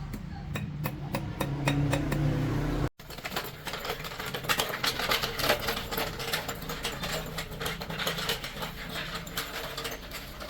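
Rapid, irregular metallic clicking and tapping of workshop hand work on metal parts, over a low hum that stops abruptly about three seconds in.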